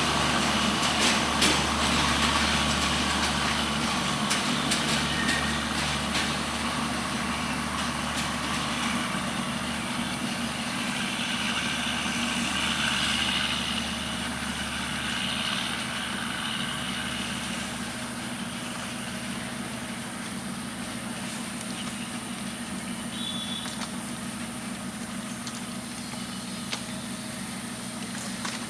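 WDM-3A diesel-electric locomotive engine running with the rumble of the train, with a few clicks early on. The sound grows gradually fainter.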